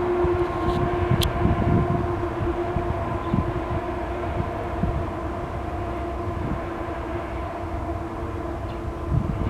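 Train passing close by: a steady low rumble with uneven thuds from the wheels and cars, over a faint steady hum that fades after the first second.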